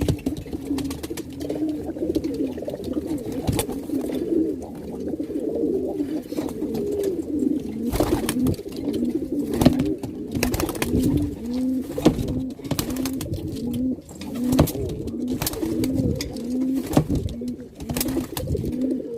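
Domestic pigeons cooing, a cock pigeon's courtship cooing while he drives the hen, with scattered sharp knocks. The low coos come in an even, quick run through the second half.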